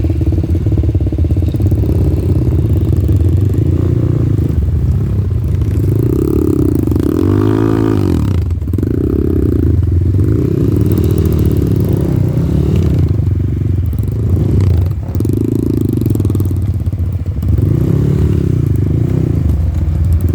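Off-road dirt bike engine running under load while riding, the revs rising and falling with the throttle throughout, with a brief drop in loudness about fifteen seconds in.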